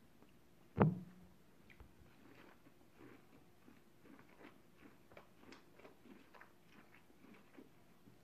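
Biting and chewing boiled corn on the cob close to the microphone: a run of many small crunches and clicks. A single sharp thump about a second in is the loudest sound.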